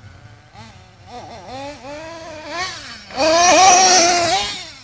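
Nitro RC monster truck's small two-stroke glow engine revving in short blips, then held at full throttle, much louder and higher, for about a second and a half from about three seconds in, before fading.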